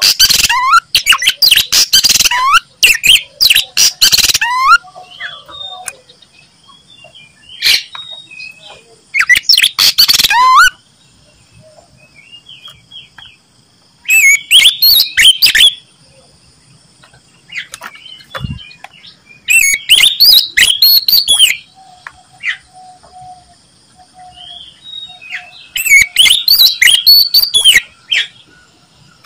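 Oriental magpie-robin (kacer) singing loudly in full song: bursts of rapid, varied whistled phrases, each a second or two long, with pauses of a few seconds between them.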